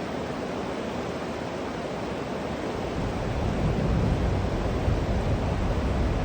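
Steady rushing of river water, an even hiss with no distinct events. A low rumble joins it about three seconds in and the sound grows louder.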